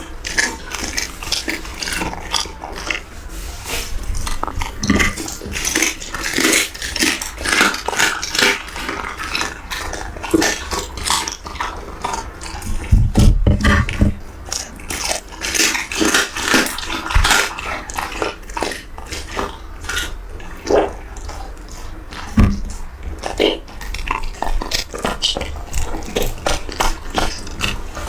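A dog eating, with irregular crunching and chewing clicks.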